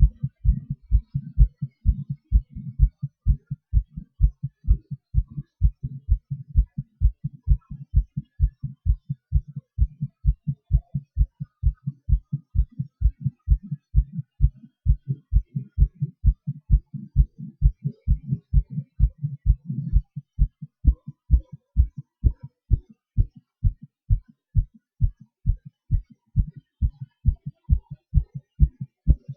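A human heartbeat, recorded close up: a fast, regular series of low lub-dub thumps with a low hum between the beats. The hum thins out about two-thirds of the way through.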